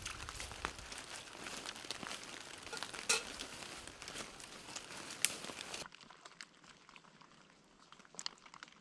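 Dense crackling and rustling with scattered sharp snaps, the loudest about three and five seconds in. Around six seconds in it cuts abruptly to a much quieter background with a few faint clicks.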